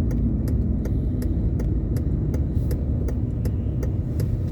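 Car cabin sound while driving on wet roads: a steady low rumble of engine and tyres, with sharp little ticks several times a second over it.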